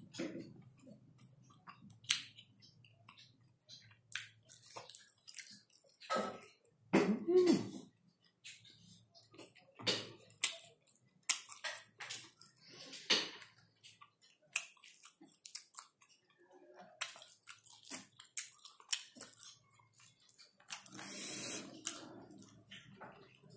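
Close-up eating sounds from a person eating rice and noodles by hand: wet chewing and lip-smacking, with many short clicks. There is a louder cluster about a third of the way in, and a longer slurp near the end as a handful of noodles goes into the mouth.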